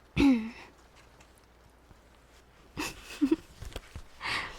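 Close-miked woman's wordless vocal sounds. A short sound falling in pitch comes near the start; about three seconds in there is another short voiced sound with sharp mouth clicks, then a breath near the end.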